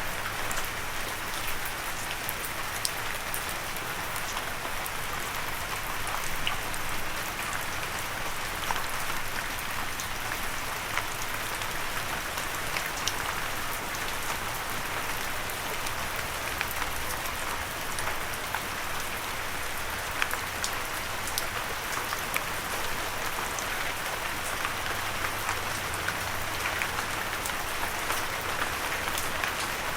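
Steady gentle rain falling on a surface, an even patter with many small drop ticks scattered throughout. No thunder.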